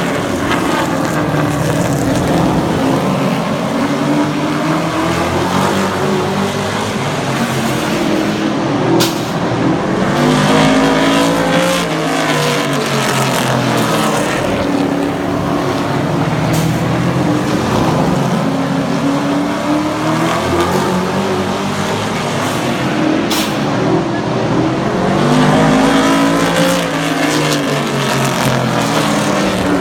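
Super trucks racing on a short oval track, their engines running hard. The engine note swells and falls as the pack passes, about every seven or eight seconds.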